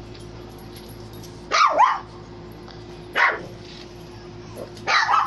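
Dog barking during rough play with another dog: two barks about one and a half seconds in, one more at about three seconds, and more near the end.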